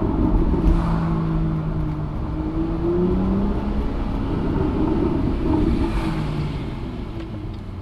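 BMW M2's N55 3.0-litre turbocharged straight-six engine and exhaust, driven in Traction mode. The engine note climbs and dips as the car accelerates and eases off, then fades a little near the end.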